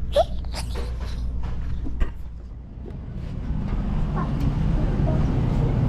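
A low, steady vehicle engine rumble that grows louder about halfway through, with two sharp knocks, one near the start and one about two seconds in.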